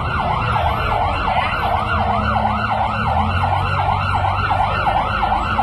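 Emergency vehicle siren in a fast yelp, its pitch rising and falling about three to four times a second, over a low rumble.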